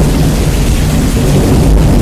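Rain and rolling thunder, bass-boosted and distorted: a constant hiss of rain over a heavy, rumbling low end that stays steady.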